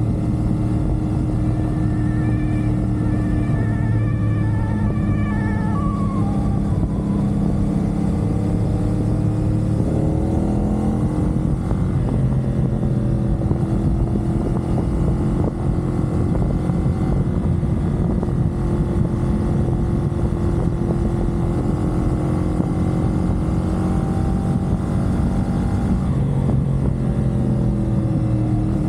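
CFMoto 450SR's parallel-twin engine running steadily at cruising speed, with road and wind noise underneath. The engine pitch shifts briefly about ten seconds in and rises again near the end.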